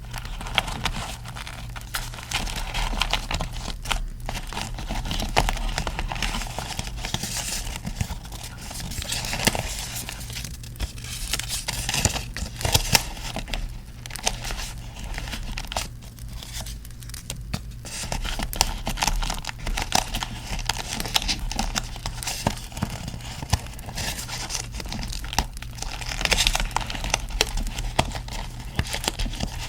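Paper being handled close to the microphone: crinkling, rustling and tearing with many small clicks and a steady low hum underneath.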